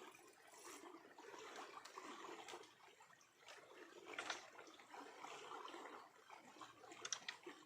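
Faint flowing water trickling, with a couple of short sharp ticks about four seconds in and near the end.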